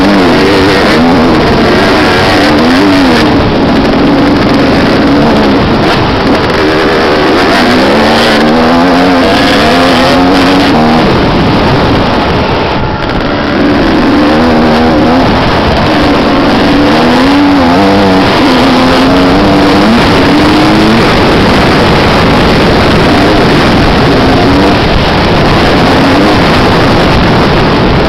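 Motocross motorcycle engines revving, the pitch rising and falling again and again as the bikes accelerate and back off. The sound is loud throughout, with a short lull about halfway.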